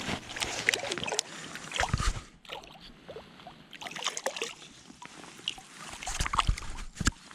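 Water sloshing and splashing with scattered knocks and clicks as a caught trout is handled and unhooked from a barbless hook.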